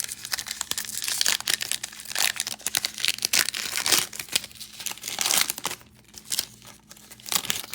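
Trading-card pack wrappers crinkling and tearing as packs are opened and the cards handled, a dense run of irregular crackles and rustles that thins out near the end.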